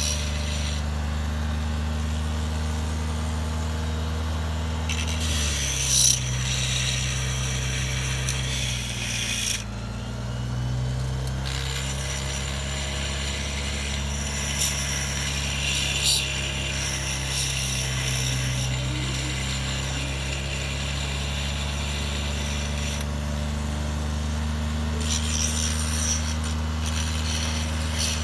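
Power tool or machine motor running steadily, its pitch dropping a little about five seconds in, with intermittent scraping and cutting noise of a part being worked.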